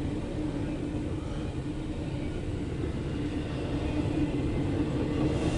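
CSX freight train of intermodal and autorack cars rolling past with a steady low rumble and a steady hum.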